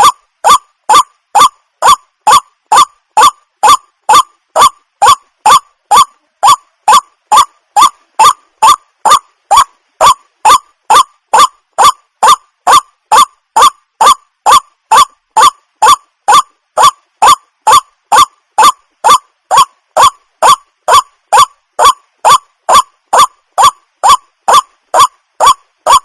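Water hen calling: a short honking note repeated at a strictly even pace, about two a second.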